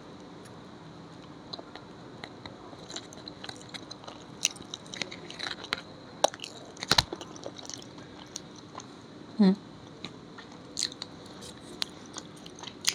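Close-up eating sounds as soya chaap is bitten and chewed: soft wet mouth clicks and chewing, with a sharper click about seven seconds in and a brief hum about nine and a half seconds in.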